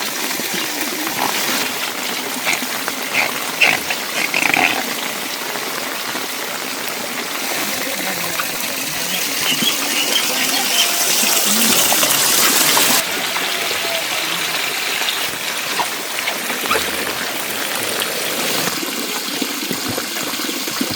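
Running water with a steady rush, and scattered small clicks and knocks. It swells from about ten seconds in, then drops off suddenly a few seconds later.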